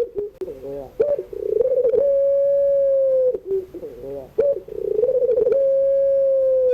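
Puter pelung dove giving its long 'crying' coo: each call opens with a quick rolling warble, settles into one long level note held about two seconds, then drops away. Short broken coos follow. The full call comes twice.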